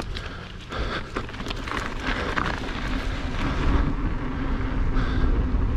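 Mountain bike rolling down a dirt trail: wind rushing over the microphone, with tyre rumble and small rattles from the bike. It grows gradually louder as the bike gains speed.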